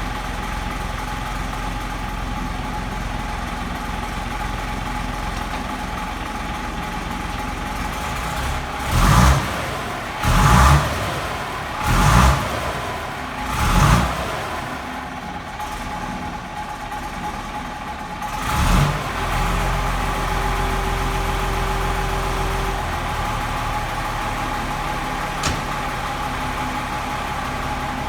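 Gardner 6LXC six-cylinder diesel in a Foden Fleetmaster lorry idling steadily. About a third of the way in, the throttle is blipped four times in quick succession, then once more a few seconds later. A single sharp click comes near the end.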